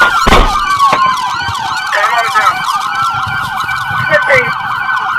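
Police sirens on several pursuit vehicles: one slow wail that falls and rises again, overlaid by faster yelping sirens sweeping a few times a second. A sharp thump sounds about a third of a second in.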